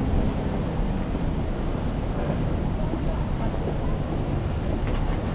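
Steady low rumbling noise of outdoor city street ambience and wind on the microphone, with faint voices in the background.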